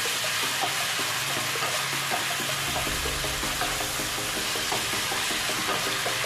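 Chicken pieces sizzling and bubbling in a sauce in a frying pan: a steady hiss with many small pops, while a wooden spatula stirs them around.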